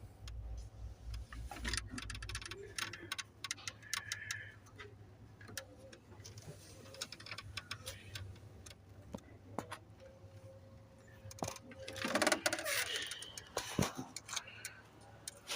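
Scattered light clicks and ticks at an irregular pace over a low steady hum, with faint voices about four seconds in and again near the end.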